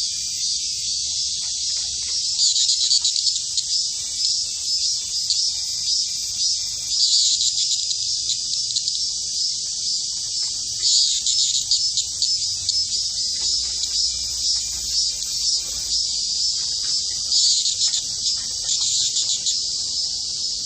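Cicada singing: a continuous high, shrill buzz that swells louder several times.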